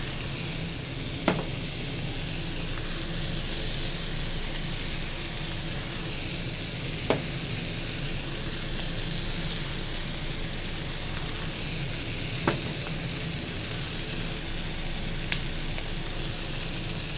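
Chicken with tomato and ground spices frying in oil in a wok: a steady sizzle, with four sharp clicks spread through it.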